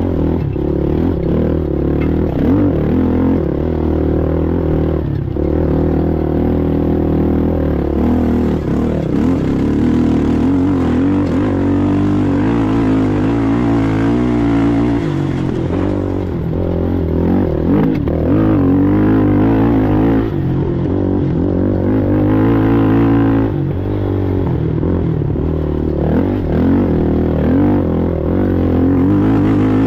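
Race ATV engine running hard, its pitch rising and falling again and again as the throttle is worked.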